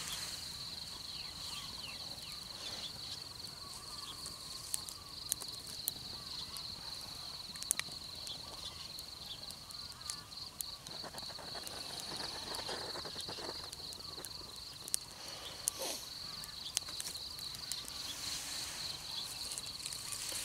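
Insects trilling in a steady chorus, a continuous high pulsing buzz, with scattered light clicks and rustles of handling in the foreground.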